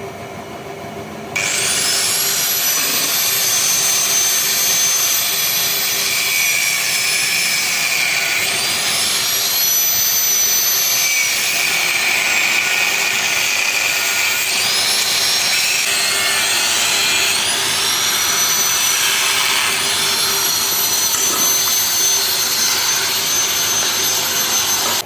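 Angle grinder switched on about a second in and grinding metal, its high whine sagging and climbing back several times as it is pressed into the work and eased off.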